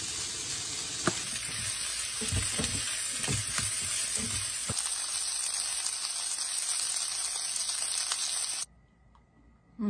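Broccoli and bacon sizzling in hot oil in a stir-fry pan, with a spatula stirring and knocking against the pan for the first few seconds. The sizzle cuts off suddenly near the end.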